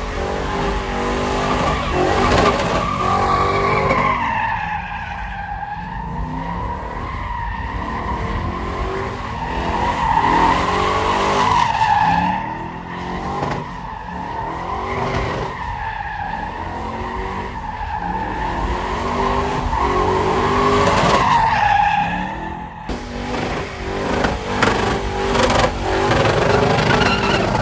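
Vehicle tyres squealing on pavement in a long burnout, the squeal wavering up and down in pitch every couple of seconds over engine noise. It breaks off briefly a little over three-quarters of the way through.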